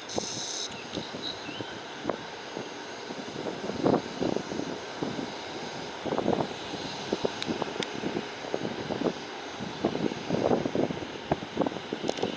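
Jet engines of a Boeing 737-300 cargo plane running: a steady rush with faint high tones and uneven louder surges every second or two.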